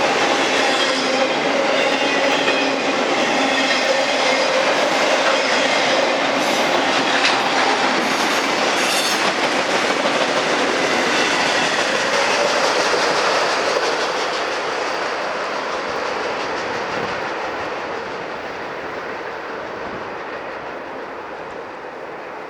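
Cars of a Norfolk Southern intermodal freight train rolling past, wheels clacking over the rail joints. About two-thirds of the way through the sound begins to fade as the train moves away.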